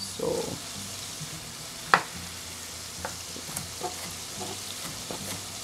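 Spiced masala frying in a pot with a steady sizzle, and a chef's knife tapping through a tomato onto a wooden chopping board a few times; the loudest tap comes about two seconds in.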